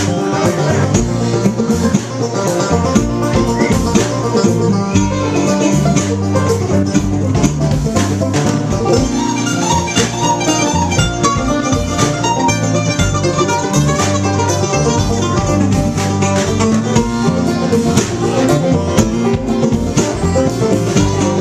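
Live bluegrass band playing an instrumental break: fast picked acoustic string lead over a steady bass line and strummed rhythm.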